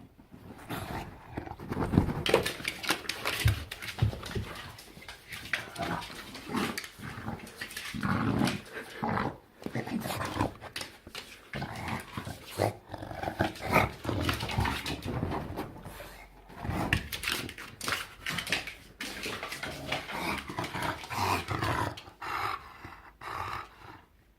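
English bulldog making a long, unbroken run of weird gremlin-like grumbling and growling noises, rough and irregular, one after another.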